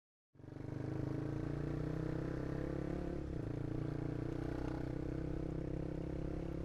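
Honda CB150R single-cylinder engine running through an aftermarket Proliner exhaust while riding, a steady note with a brief dip in pitch about three seconds in.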